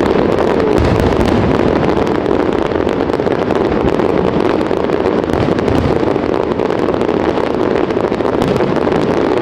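Dense fireworks barrage: many shells bursting close together, their booms and crackles running into one steady din with sharp cracks throughout.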